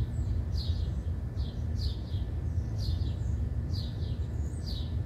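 A songbird calling over and over, a short falling chirp about once a second, over a steady low rumble.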